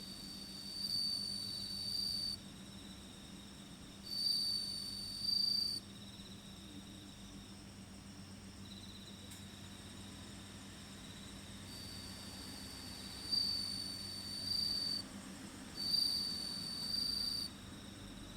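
Crickets singing: one loud high trill comes in four bouts of one and a half to three seconds, over a fainter unbroken trill from others. A faint steady low hum lies underneath.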